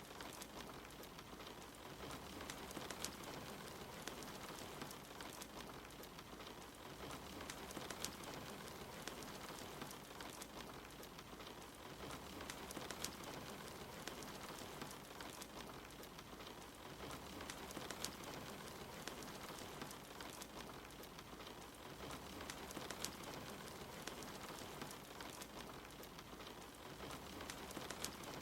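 Steady rain falling, with a wood fire crackling: scattered sharp pops over an even hiss.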